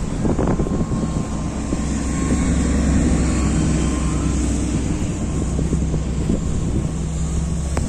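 A steady low engine rumble that holds level with no start or stop.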